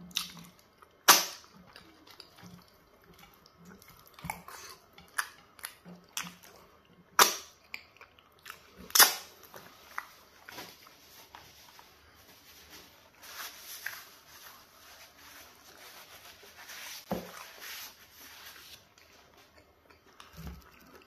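Close-miked eating of pounded yam fufu with peanut soup by hand: sharp wet mouth smacks and lip clicks as morsels go in and are chewed, the loudest about a second in and again around seven and nine seconds in, followed by a softer stretch of wet chewing.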